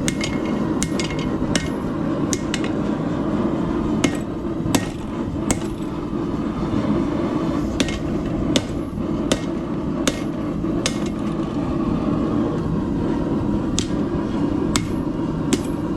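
Hand hammer striking hot steel on an anvil to bend a holdfast, about seventeen single blows, some ringing briefly, at an uneven pace with short pauses in between. A steady low rushing noise runs underneath.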